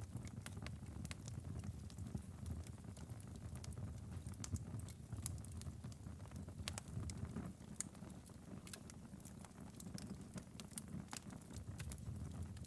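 Fire in a fireplace crackling, with irregular sharp snaps and pops over a steady low rumble.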